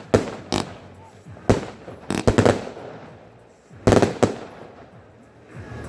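Fireworks going off: a string of sharp, unevenly spaced bangs with echoing tails, several close together about two seconds in and a loud pair about four seconds in.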